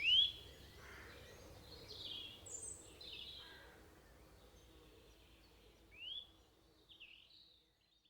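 Several forest songbirds singing and calling. A rising whistled note closes a quick series at the start, short chirps follow, and another rising whistle comes about six seconds in; the sound fades out near the end.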